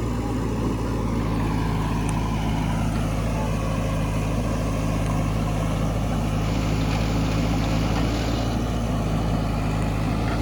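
A motor vehicle's engine running steadily at an even speed, with a constant low hum.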